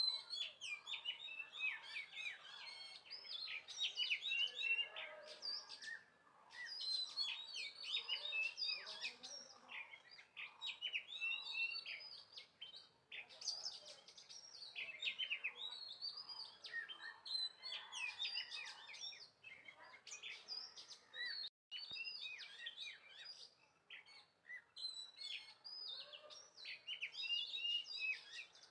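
Small birds chirping, many short quick calls overlapping with hardly a pause. The sound cuts out for an instant about three quarters of the way through.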